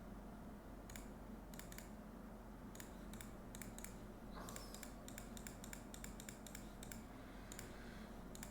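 Faint, irregular clicking of computer controls, coming in quick clusters, over a low steady hum.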